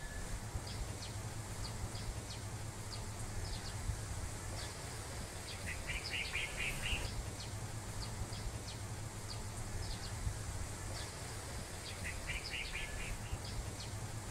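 Small birds chirping outdoors, scattered short high calls, with two quick runs of repeated notes about six and twelve seconds in, over a steady low rumble of outdoor ambience.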